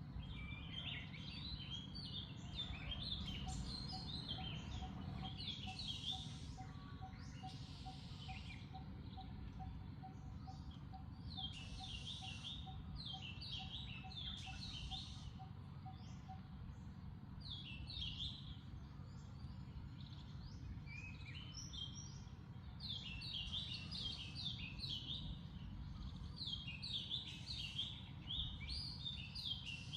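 Small birds chirping in repeated clusters over a steady low rumble of outdoor background noise, with a faint note pulsing about twice a second through the first half.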